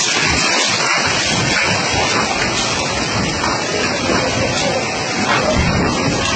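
Storm-force wind with rain, a steady loud rushing noise that buffets the microphone.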